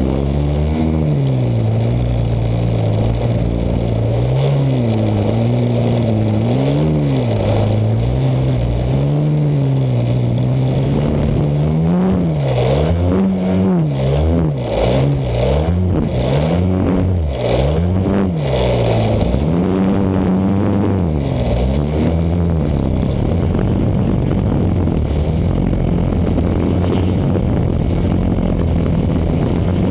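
Desert Aircraft DA-100 twin-cylinder two-stroke gasoline engine of an RC aerobatic plane, heard from an onboard camera, its pitch rising and falling over and over as the throttle is worked in flight, then holding steady near the end.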